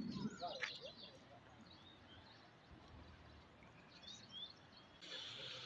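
Birds chirping faintly, a few short calls about half a second in and again about four seconds in, over quiet outdoor hiss that grows louder near the end.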